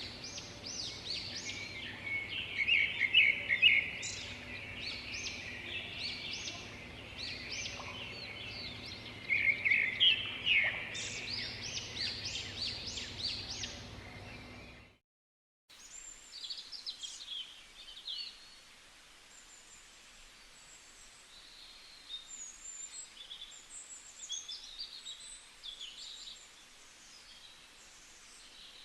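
Several songbirds chirping and singing in quick, overlapping calls, loudest in the first half over a faint low hum. After a brief cutout about halfway through, fainter and sparser bird calls continue.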